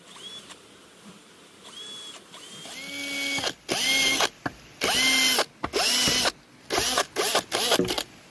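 Power drill run in about six short bursts of the trigger, the motor's whine rising at the start of each burst, with brief pauses between them.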